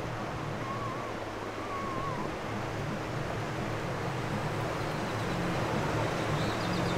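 Steady rush of flowing river water, growing a little louder, over a low steady hum. Two faint wavering whistles sound about a second in.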